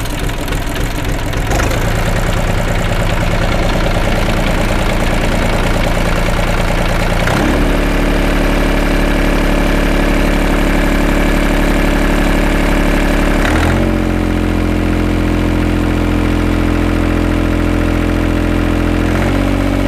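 Small three-cylinder diesel engine of a mini-tractor running steadily. Its speed is raised in steps about 1.5 s and 7.5 s in, then dropped back about 14 s in.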